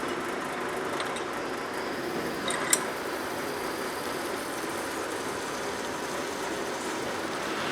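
Steady running noise of metalworking machinery, with a sharp metallic click near the middle.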